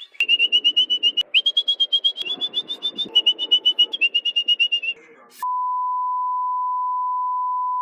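A songbird singing a fast trill of high chirps, about ten a second, in several short phrases. About five seconds in it stops and a steady, single-pitched beep tone takes over.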